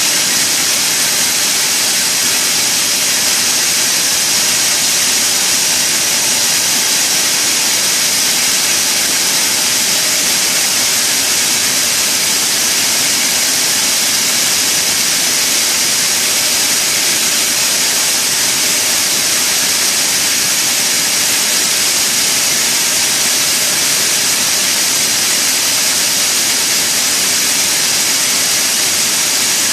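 Sawmill machinery running with a loud, steady high hiss that does not change.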